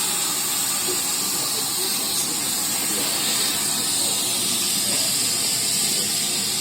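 Steam locomotive venting steam: a steady, loud hiss.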